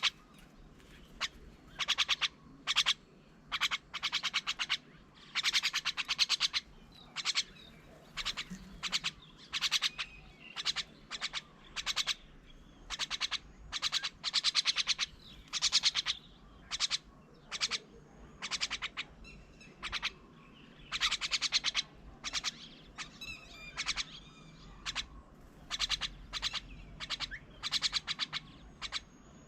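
Birds calling: many short bursts of rapid, rattling chatter, coming about once a second, with a few fainter whistled notes in the second half.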